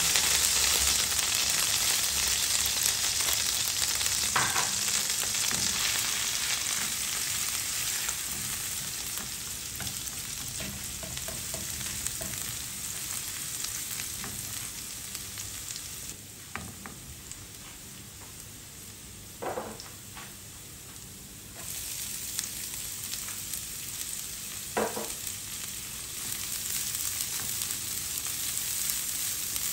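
Hot oil sizzling in a nonstick frying pan as minced garlic and then chopped onion fry, stirred with a spatula. The sizzle eases for a few seconds in the middle, then picks up again, with a few brief knocks of the spatula against the pan.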